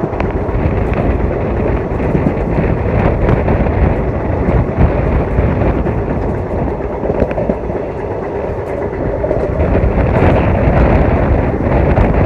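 Passenger train running along the track: a loud, steady rumble of the carriage on the rails with faint irregular clicks, and rushing air on the microphone.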